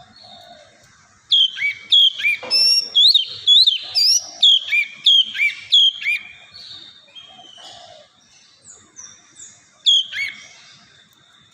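Oriental magpie-robin singing: a loud run of rapid, sliding whistled notes starting about a second in and lasting some five seconds, then softer notes and another short loud phrase near the end.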